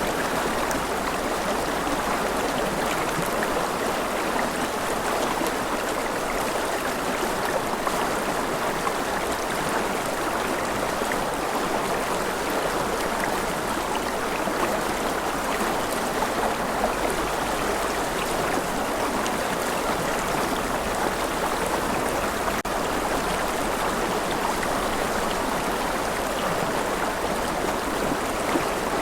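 Steady gentle rain: an unbroken wash of falling water sprinkled with fine drop ticks, holding an even level throughout.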